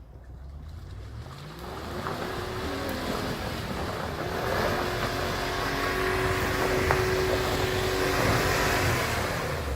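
Dodge Power Wagon engine revving up and then held at high revs under load, as the truck strains to pull itself out of deep mud.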